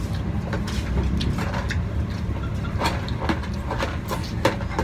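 Scattered sharp clicks and light taps of eating and handling food, over a steady low background rumble.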